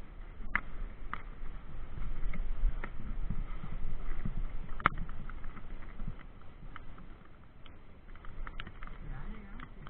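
Mountain bike ride over rough ground: a steady low rumble that swells and eases, with scattered sharp clicks and knocks from the bike rattling.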